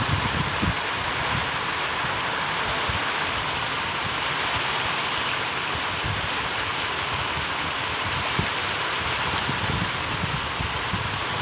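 Heavy rain falling steadily, a dense even hiss, with some low gusts of wind on the microphone near the start.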